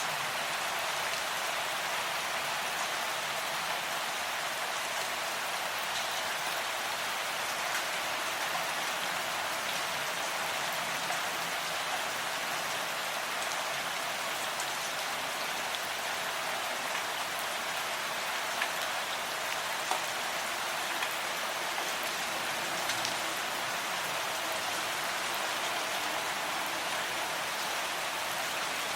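Steady rain falling, an even hiss with scattered drops tapping, a few slightly louder near the end.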